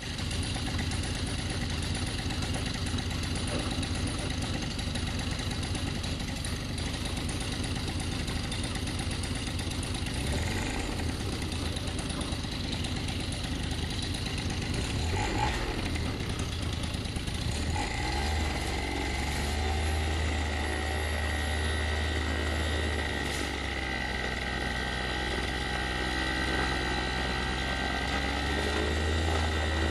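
Black Devil Corsair M25Y 172 two-stroke paramotor engine with a Vortexaero expansion exhaust pipe, running steadily with its propeller. About 18 seconds in the engine note shifts, then holds a steady higher-pitched drone.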